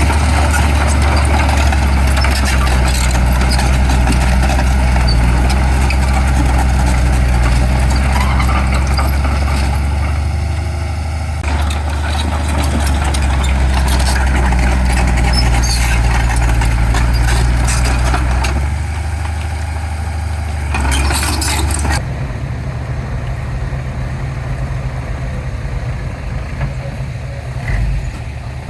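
Heavy diesel earthmoving machinery running with a steady low engine drone, with scattered knocks and rattles in the middle. About two-thirds of the way through, the engine sound drops and turns rougher.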